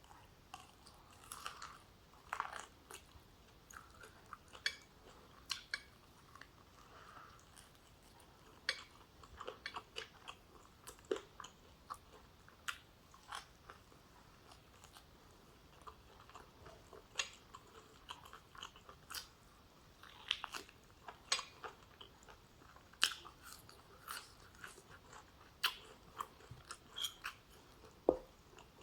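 A person chewing a mouthful of oxtail stew with rice and vegetables: irregular short, sharp mouth clicks and smacks, sometimes several in quick succession, with pauses between.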